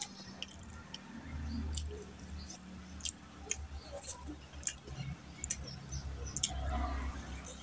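Close-miked chewing of a mouthful of rice and curry, with many sharp wet mouth clicks and smacks over a low, uneven rumble of the chewing.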